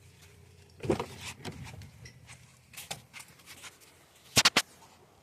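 Handling knocks and clicks of a rock and scissors being set against the car's hood: a dull knock about a second in, light scattered clicks, then a sharp rapid clatter of three clicks near the end.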